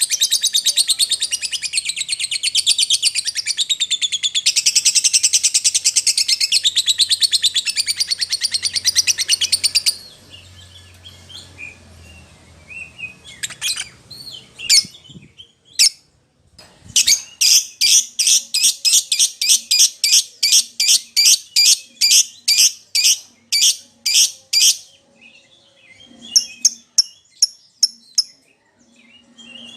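A lovebird calling to its companion. For about the first ten seconds it keeps up a fast, high-pitched chatter. Scattered single calls follow, then a run of sharp repeated chirps at about two or three a second, and a few more near the end.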